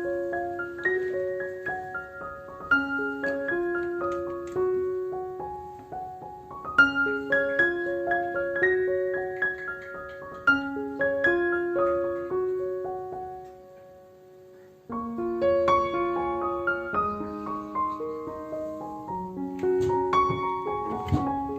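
Background solo piano music playing a gentle melody of sustained notes; the phrase fades out about two-thirds of the way in, and a new phrase starts a second later.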